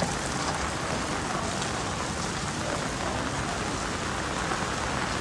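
Steady rain falling, with faint scattered ticks of individual drops.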